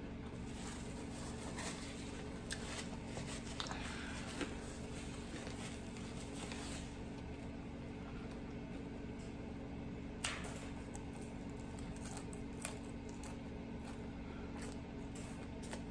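Soft close-up eating sounds: chewing and wet mouth clicks, with a few sharper clicks scattered through, over a steady low hum.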